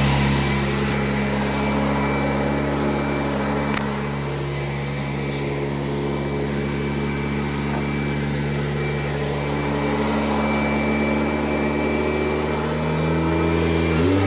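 A 1991 Kirby Generation 3 upright vacuum running steadily, a motor hum with a faint high whine. Just before the end the hum abruptly changes pitch.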